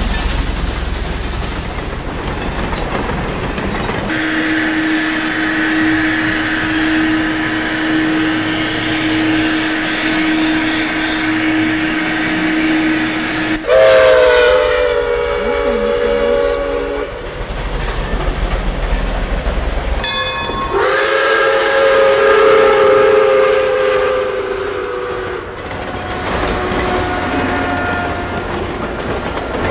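Train sounds: rolling noise with clickety-clack wheel clatter, then a long single-note horn for several seconds, followed by two blasts of a multi-note train horn chord, each a few seconds long, about halfway through and two-thirds of the way through.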